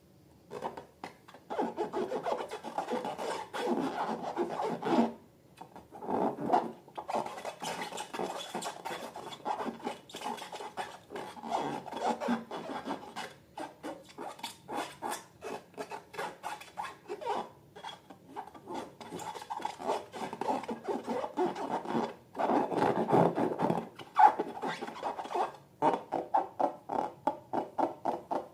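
Hands working slime: rubbing and squishing in quick repeated strokes, about two to three a second, with a few short pauses.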